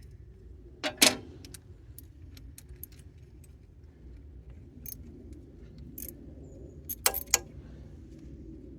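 Metal hand tools clinking and knocking together in irregular clatters, the loudest about a second in and a quick cluster around seven seconds in.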